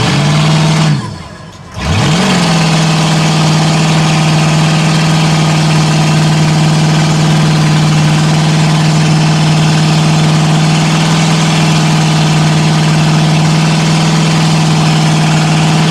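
Mud truck engine revved hard. It drops off about a second in, then climbs again and is held at a steady high pitch, flat out.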